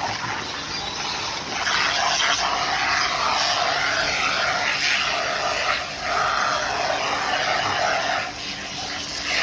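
Pressure washer running, its jet of water spraying against a dirty aviary tray to soak and soften the caked-on mess. The spray hiss is steady, easing off briefly a few times as the jet moves.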